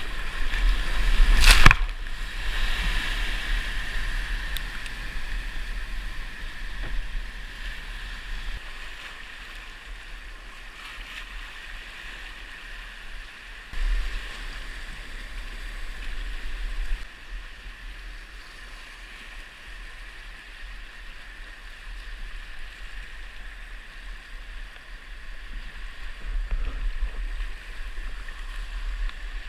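Whitewater creek rapids rushing steadily, with a sharp knock about a second and a half in.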